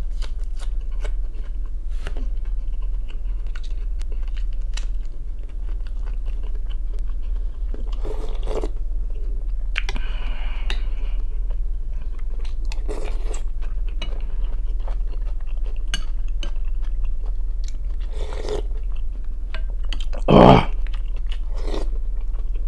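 Close-miked eating sounds: wet chewing and lip smacking of creamy soup and raw tomato-and-onion salad, with many small clicks and a few louder bursts, the loudest near the end. A steady low hum runs underneath.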